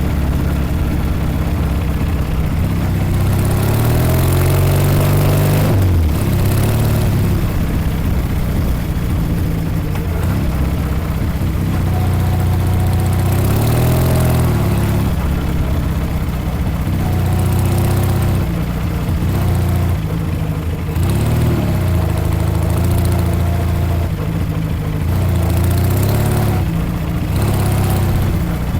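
A 1956 Norton 500 Dominator's parallel-twin engine running under way, its revs climbing and dropping several times.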